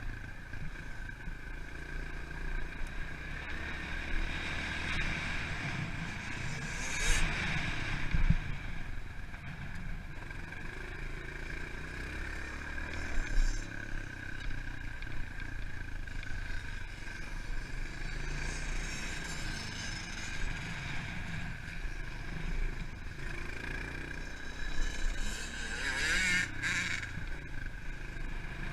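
Pit bike engine running and revving as the bike is ridden on a dirt motocross track, with a few louder jolts and clatters.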